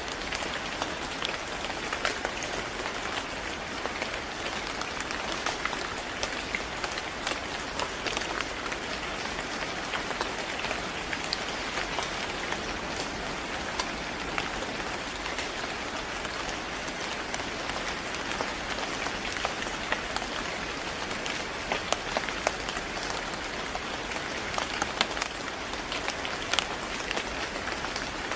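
Steady rain falling on a surface, a constant patter with many individual drops ticking sharply through it.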